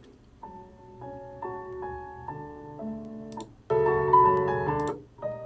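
Solo piano music played back as background music: a gentle melody of single notes, swelling into a louder passage of chords about four seconds in, then briefly dropping away before the notes resume.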